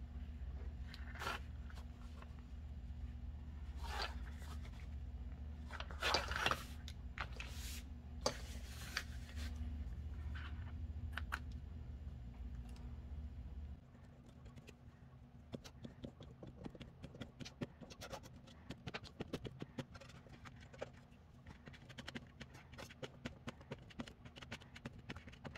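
Thin paper being handled for a gluebook: rustling and crinkling, with louder scraping and tearing strokes in the first half. Past the middle come many quick small clicks and rustles.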